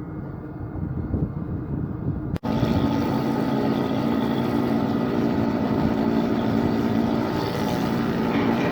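A ship's engine and machinery running with a steady drone and a constant low hum. It cuts out for an instant about two and a half seconds in, then carries on louder and fuller.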